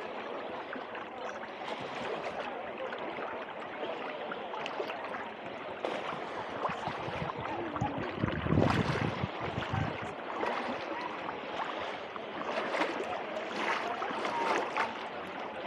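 Small Mediterranean waves lapping and washing at the shoreline, a continuous gurgling wash with fine crackles, and a louder surge about eight and a half seconds in.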